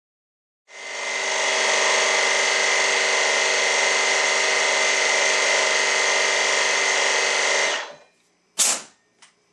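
Impact wrench running for about seven seconds as it hammers a fastener loose on a motorcycle engine, starting abruptly and stopping sharply. A short sharp burst follows near the end.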